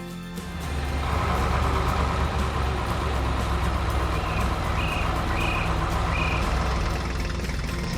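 Heavy construction-vehicle engine sound effect starting about half a second in and running steadily with a deep hum, with four short high beeps, like a reversing alarm, a little past the middle.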